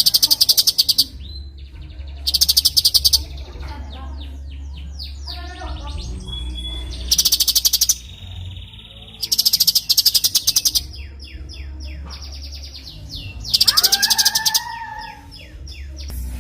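Cucak cungkok bird singing: loud, rapid high trills under a second long, repeated every two to five seconds. Between them come runs of quick falling whistled notes, and a lower warbled phrase about fourteen seconds in. A low steady hum runs underneath.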